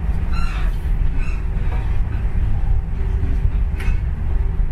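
Steady low rumble of a moving passenger train, heard from inside the carriage, with a faint steady hum over it and a single sharp click near the end.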